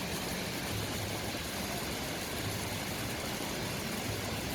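Steady rushing roar of a nearby waterfall, an even unbroken noise.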